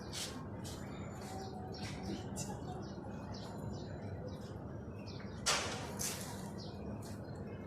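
Quail chirping: a run of short, high peeps through the whole stretch, with one louder sharp tap about five and a half seconds in.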